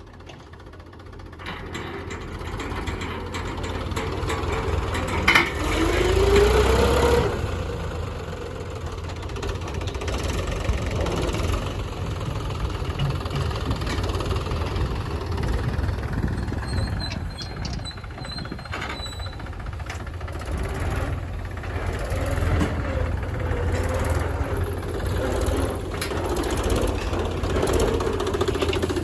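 Tractor's diesel engine running steadily, growing louder over the first few seconds. About five seconds in it revs up briefly with a rising pitch, just after a sharp click, then settles back to a steady run.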